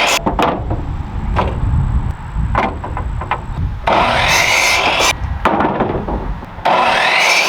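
Power tool working wood: two loud bursts of about a second each, with a whine that changes pitch, and a few sharp knocks of boards earlier on.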